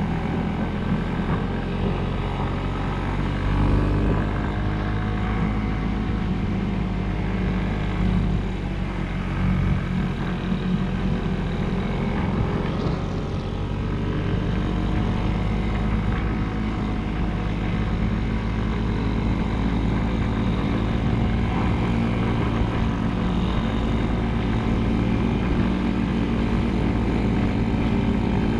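Motorcycle engine running at a fairly steady speed while riding, with slight rises and falls in pitch.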